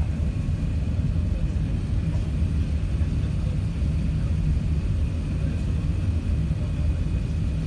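Airliner cabin noise during the landing approach: a steady low rumble of engines and airflow, with a faint steady high whine above it.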